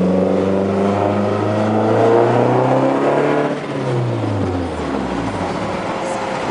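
Car engine accelerating, its pitch slowly rising, then falling away from about three and a half seconds in as the throttle comes off, leaving steady road noise.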